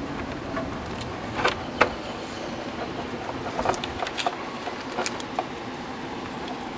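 Hand tools and metal parts clinking and knocking in a string of scattered sharp clicks, the loudest about two seconds in, over a steady background noise.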